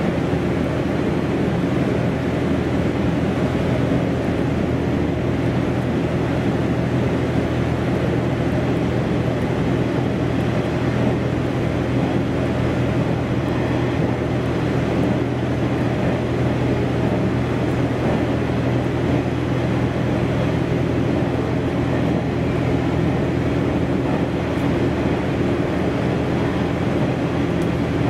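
Diesel railcar running steadily at speed, heard on board: a constant engine drone with a few steady low tones over the rushing noise of the wheels and rails.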